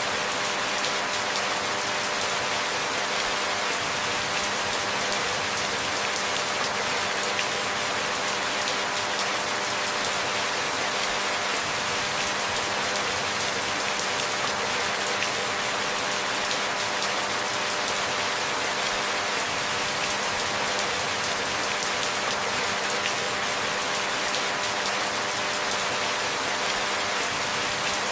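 Steady rainfall, an even hiss of many drops with no changes or gaps.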